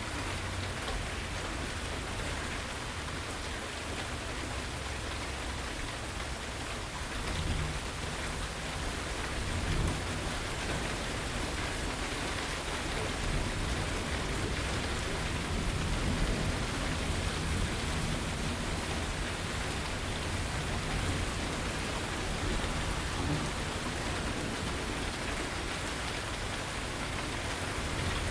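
Steady rain falling in an even hiss. A low rumble of thunder builds about a quarter of the way in and rolls on through the middle before easing.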